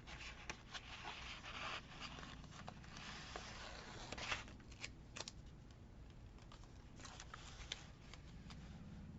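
Washi tape being pulled off its roll and laid along a paper journal page: soft rustling with scattered light ticks and taps, busiest in the first half and quieter toward the end.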